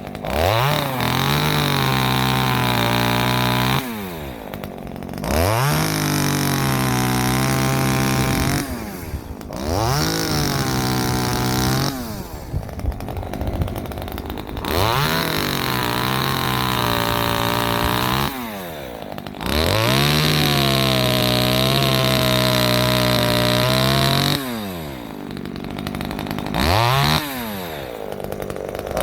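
Ozito 25.4cc two-stroke top-handle chainsaw (a Zenoah G2500 type) revving up to a steady high speed, holding a few seconds, then dropping back to idle, five times over, with one short blip of throttle near the end. The owner thinks the carburettor diaphragm is going and finds it a bit doughy in the cut.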